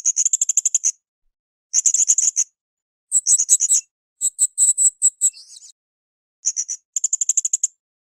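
Srindit (hanging parrot) calling in about six short bursts of rapid, high-pitched chattering notes. Each burst lasts under a second to about a second and a half, with dead silence between bursts.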